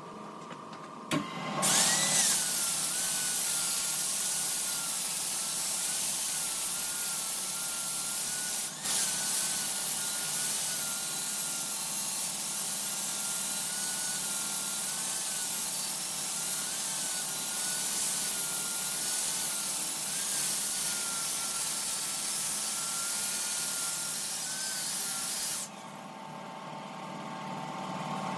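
A power tool cutting into wood, with a loud rasping noise and a motor whine that wavers up and down with the load. It starts about a second in, and cuts off suddenly near the end, leaving a steadier machine hum.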